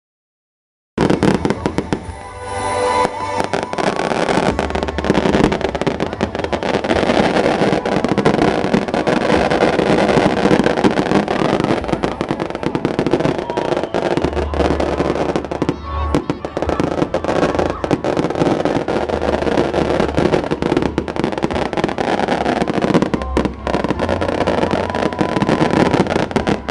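Fireworks going off in a dense, continuous crackle of rapid pops, with festival music and crowd voices underneath. The sound starts abruptly about a second in.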